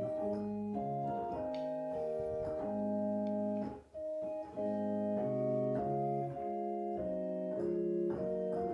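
Instrumental keyboard music with an organ-like sound: slow, held chords that change every second or so, with a brief break about four seconds in.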